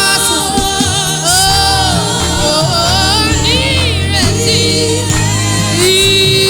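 Gospel worship song: a singer's voice in wavering, ornamented lines over instrumental accompaniment with sustained low bass notes.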